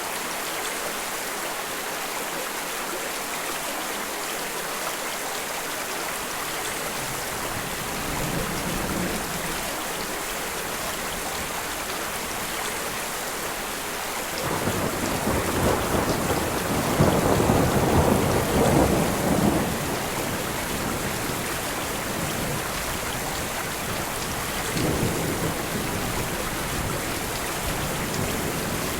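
Steady rainfall with rolling thunder. A faint rumble comes about a quarter of the way in, then a loud roll of thunder lasts about five seconds from around the middle, and a weaker rumble follows near the end.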